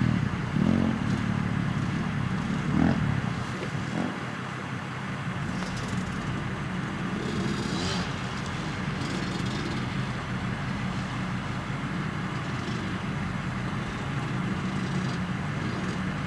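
Dirt bike engine running out on the track, louder in the first second or so, then a steady, more distant drone.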